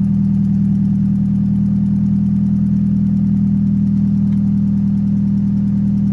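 Honda H22 inline-four engine in a swapped Civic idling steadily while it warms up.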